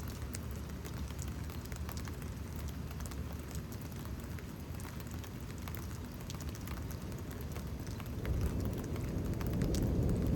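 Steady rain with many small drop patters close by. A low rumble of thunder swells in about eight seconds in and grows louder toward the end.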